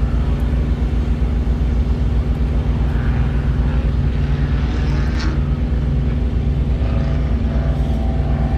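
A large diesel engine idling, a steady low rumble with an even pulse.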